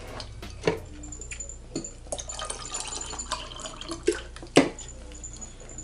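Handling noise from leftover seafood-boil food being moved about: rustling with a few sharp knocks, the loudest about four and a half seconds in.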